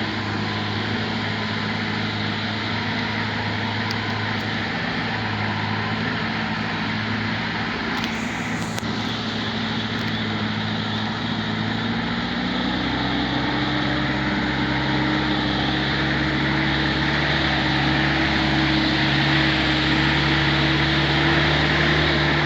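Truck engine running steadily under load, then revving up to a higher pitch about halfway through and holding there, with a brief hiss near the middle.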